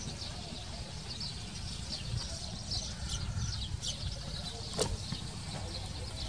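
Small birds chirping over and over in short, high notes, over a low rumble of wind and movement noise. One sharp click comes a little before the end.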